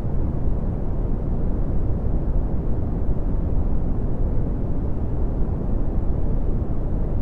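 Steady red (Brownian) noise: a deep, even rumbling hiss with most of its power in the bass, thinning out toward the treble, with no changes or events.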